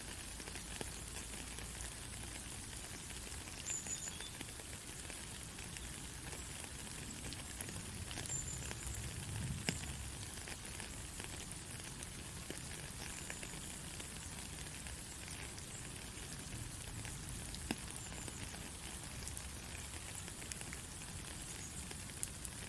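Steady rain: an even hiss with many small drops pattering, and a few sharper single drop hits, about ten and eighteen seconds in.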